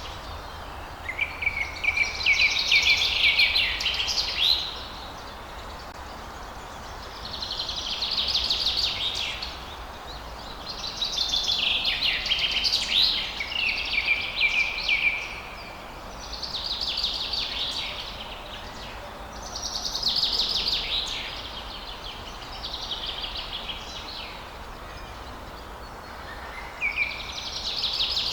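A songbird singing fast, trilled phrases of two to four seconds each, repeated every few seconds with short pauses between, over a steady low background hiss.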